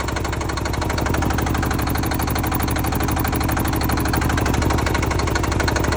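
Kawasaki KLR650 with an HDT single-cylinder diesel engine running steadily, a rapid, even diesel clatter of firing knocks.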